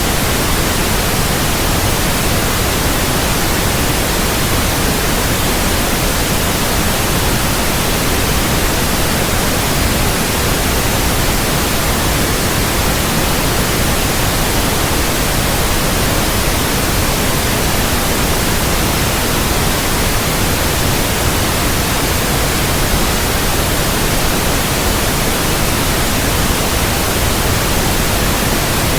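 Steady, loud white noise: an even hiss spread across all pitches, unchanging throughout, played as a sleep aid for babies.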